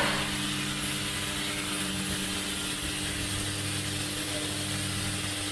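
Automatic centrifugal fan impeller assembly machine running with a steady mechanical hum.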